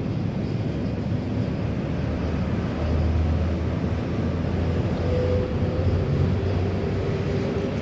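Steady low rumble with a low hum that grows stronger about three seconds in.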